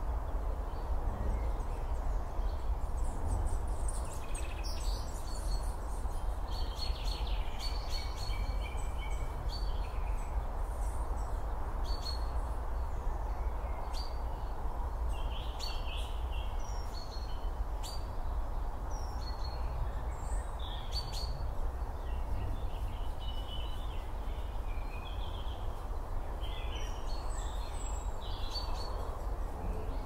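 Small woodland birds giving short chirps and calls, scattered and repeated, over a steady low outdoor rumble and hiss.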